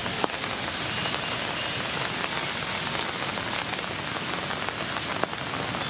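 Steady rain falling, an even hiss with a few drops tapping now and then.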